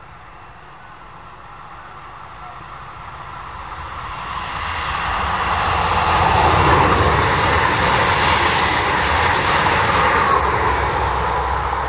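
Electric multiple unit passing at speed: the rumble and hiss of its wheels on the rails grows as it approaches and stays loud as it goes by.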